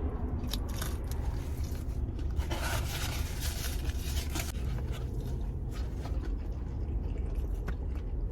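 Biting and crunching into the hard, overcooked crust of a Pizza Hut chicken bacon Melt, with scattered crackles and a denser stretch of crunching around the middle, over a steady low rumble.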